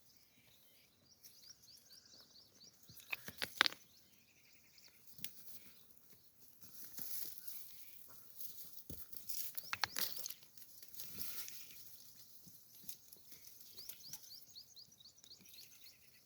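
Irregular rustling and crunching, with a few sharp cracks at about three and a half and ten seconds in. Birds chirp in short repeated trills near the start and again near the end.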